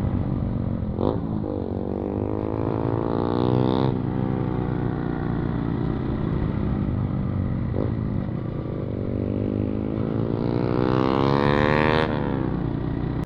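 Yamaha MT-15 motorcycle's single-cylinder engine, loud through a modified exhaust with the dB killer removed, running under way. Its pitch climbs, drops sharply about a second in and again around eight seconds in, then climbs again.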